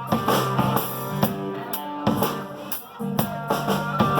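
Live blues-rock band playing an instrumental passage: electric guitar over a drum kit with bass drum and cymbal hits, between sung lines.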